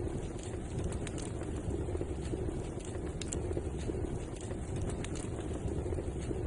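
Wood fire burning in a fireplace: a steady low rushing noise with scattered small, sharp crackles and pops.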